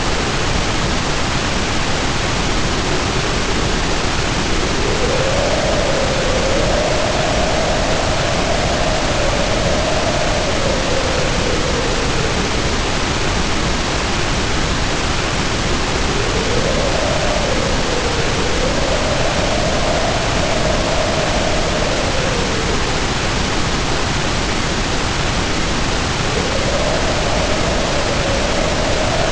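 Storm ambience: a steady hiss of pouring rain under a howling wind, the howl rising and falling in slow swells every few seconds.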